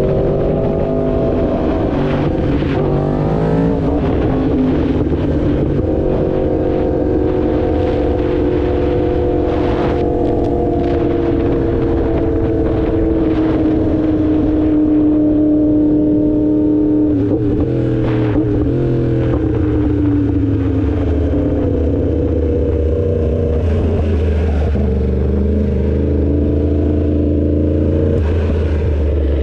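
2016 Yamaha R1's crossplane inline-four engine running on the move. Its revs rise quickly about three seconds in, then ease slowly down and settle to a low, steady note near the end.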